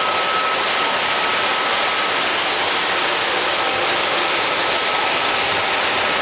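Miniature model trains running on their track: a steady whirring rattle of small wheels and motors, with a faint thin whine held through it.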